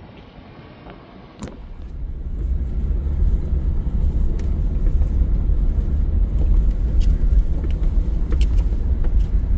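Ford Super Duty pickup rolling over a rough gravel and rock forest road: a heavy low rumble that builds about a second and a half in and then holds, with scattered clicks and rattles of stones and the truck's body.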